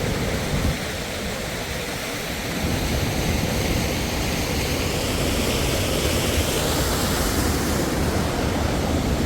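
Steady rush of water from a waterfall, with wind buffeting the microphone as a low, fluttering rumble; the noise swells about two and a half seconds in.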